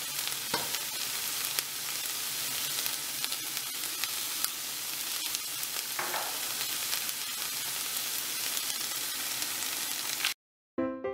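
Sliced pork and chopped green onions sizzling as they are stir-fried in a frying pan, with small taps and scrapes of wooden chopsticks against the pan. The sizzling cuts off suddenly near the end.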